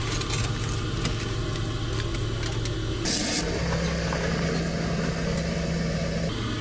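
A steady low engine hum. About three seconds in comes a short burst of hiss, and the hum changes to a higher, steady tone that drops back shortly before the end.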